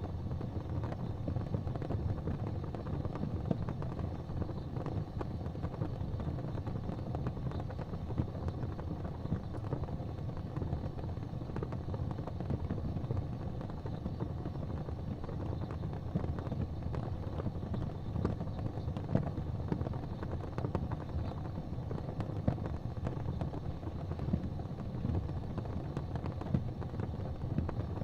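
Fireplace fire crackling: frequent small pops and snaps over a steady low rumble.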